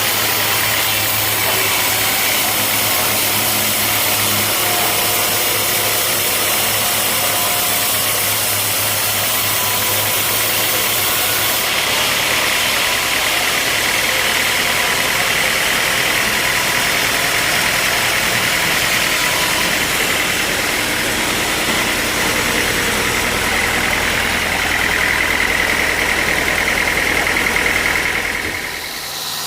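Sawmill machinery running steadily, a loud mechanical drone with a steady hum. About twelve seconds in, the low hum stops and the tone of the noise changes.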